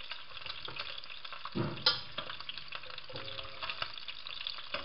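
Oxtail pieces frying in hot oil in a frying pan: a steady sizzle full of small crackles as they are turned and lifted with tongs. About two seconds in there is a short thud followed by a sharp clack.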